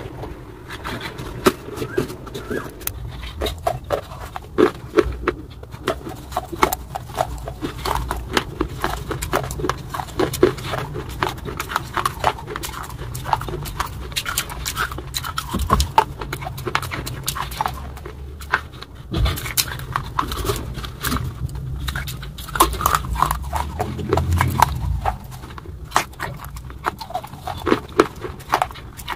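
Close-miked chewing of crunchy rolled wafers dipped in white cream: a dense, irregular run of crackles and crunches with wet mouth sounds.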